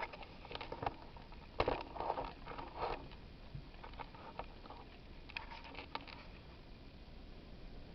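Handling noise as the camera is set down and things are moved about: a run of knocks, clatters and scrapes, loudest about one and a half seconds in, then a quieter stretch with a few light clicks near six seconds.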